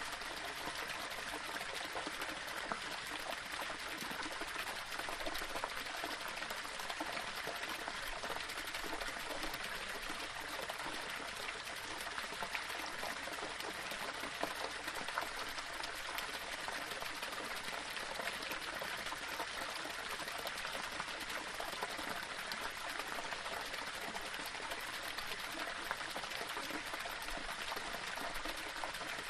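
Small waterfall: water flowing and splashing steadily over rocks, an even rushing trickle with no pauses.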